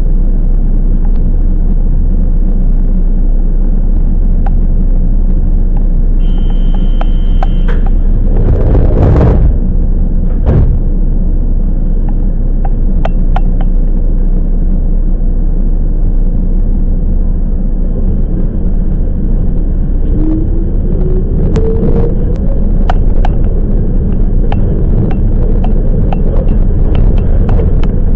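Toyama Chiho Railway 10030-series electric train running, heard from inside: a steady low rumble with irregular clicks of the wheels over rail joints. A brief high ringing tone comes about six seconds in, a loud whoosh about nine seconds in, and a faint rising tone about twenty seconds in.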